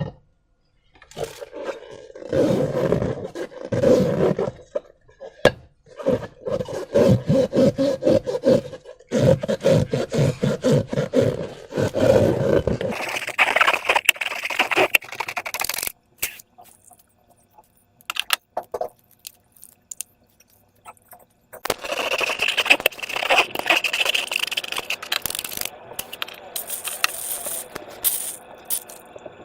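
Hands working sticky slime and rubber balloons. The first dozen seconds hold dense runs of quick, wet crackling squelches, and two later stretches hold a hissing, scraping rub.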